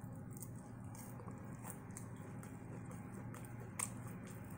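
Person chewing crunchy Flamin' Hot Cheeto-breaded fried shrimp with the mouth close to the microphone: scattered crisp crackles and one sharper crunch near the end, over a steady low hum.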